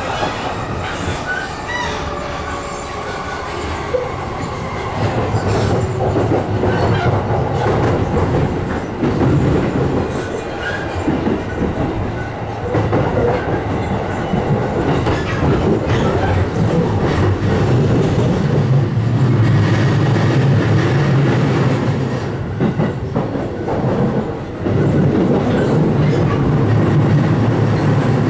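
E531-series electric commuter train running between stations, heard from inside the passenger car: a steady rumble of wheels on rails and running gear, getting louder in the second half.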